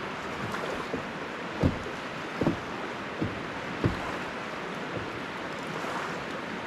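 Steady rushing of water, with a few dull, low knocks in the first four seconds, the loudest about a second and a half in.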